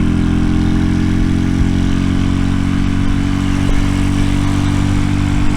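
RPS Racer 140 minibike's 140cc single-cylinder four-stroke engine idling steadily through a stainless side-exit exhaust, still on choke while it warms up.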